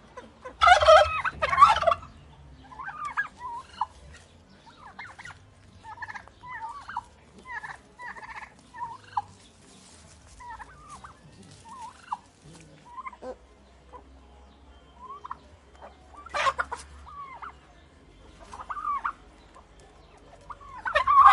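Turkey gobbling: a loud rattling gobble near the start, another about two-thirds through and a third at the end, with many short, softer calls in between.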